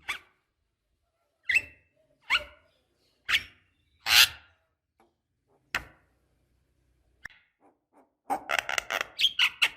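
Javan myna (jalak kebo) calling: short harsh single notes spaced about a second apart, then a fast run of chattering notes near the end.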